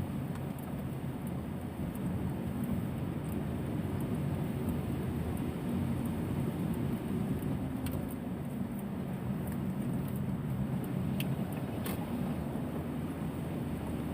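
Steady low road-vehicle rumble with no clear changes, and a few faint clicks in the second half.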